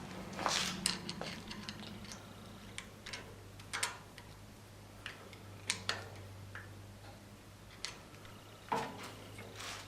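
Irregular small metallic clicks and taps of hand tools and parts being handled on a lathe headstock during reassembly, over a steady low hum.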